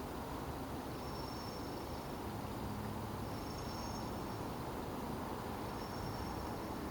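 Crop circle tones playing: a short, high-pitched chirp repeating about every two and a half seconds over a steady hiss.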